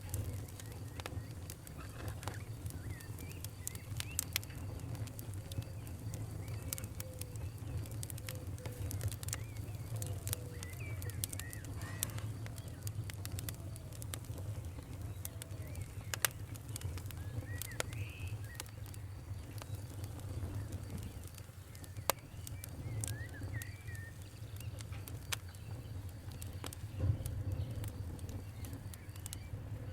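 Campfire crackling with irregular sharp pops over a steady low rumble, while birds give short chirping calls in the background.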